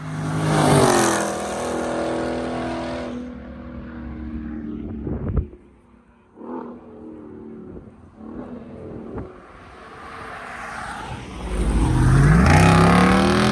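Car engines accelerating past: one car is loud at the start, its engine note falling as it goes by. A sharp knock comes about five seconds in, and near the end another car accelerates hard, its engine note rising.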